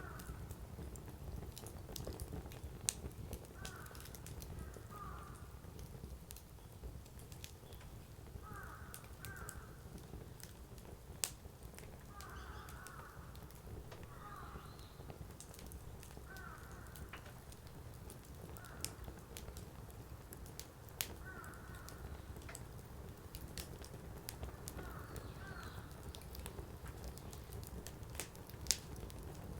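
Firewood burning in an open fire, crackling with scattered sharp pops. Behind it a bird calls in short paired calls every few seconds.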